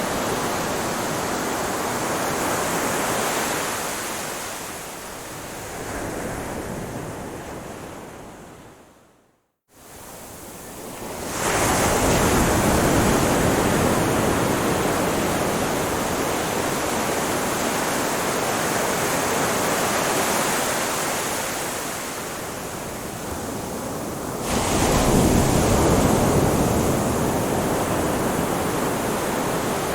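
Ocean waves washing onto a shore: a steady rush of surf that swells and eases. About nine seconds in it fades out to a brief silence, then comes back, with stronger wave surges a couple of seconds later and again near the end.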